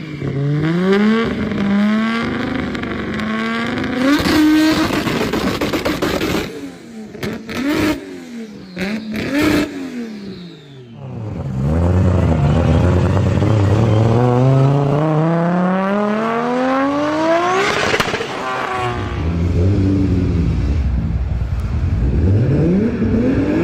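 Toyota Supra's loud exhaust as the engine revs rise and fall several times, with one long, steady climb in revs of about six seconds past the middle. A few sharp pops come from the exhaust in the first half as the revs drop.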